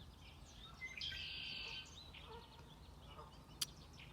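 Small birds chirping faintly in the background, with a denser buzzy trill lasting under a second about a second in and a single sharp click near the end.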